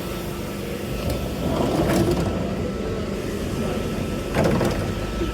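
Steady low rumble of a train standing at a station platform, with a faint steady whine and a couple of brief knocks, one about two seconds in and another past four seconds.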